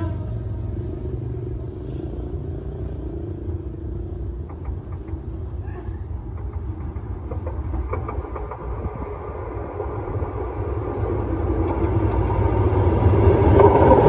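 A train rumbling along the track, a steady low rumble that grows louder toward the end.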